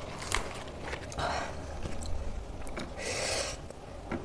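Close-miked eating sounds: a person chewing food, with a few small mouth clicks and two short breathy hisses, one about a second in and one about three seconds in.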